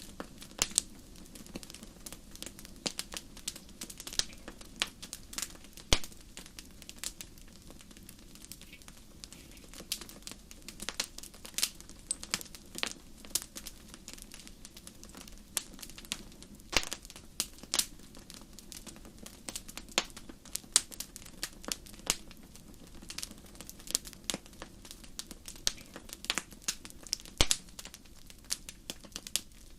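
Fireplace fire crackling: irregular sharp pops and snaps, several a second with a few louder ones, over a steady low rumble of the flames.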